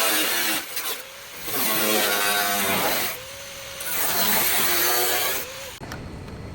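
Power tool cutting into the car's body metal in three bursts, its pitch dragging down under load each time and recovering between cuts. It stops near the end.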